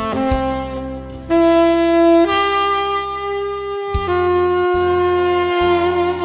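Tenor saxophone playing a slow melody of long held notes over a backing accompaniment. The melody steps up about one and two seconds in, and the last note is held with vibrato near the end.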